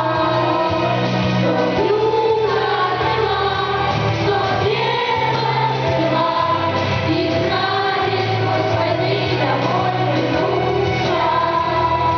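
A choir singing a song with instrumental accompaniment, the voices moving over steady held bass notes.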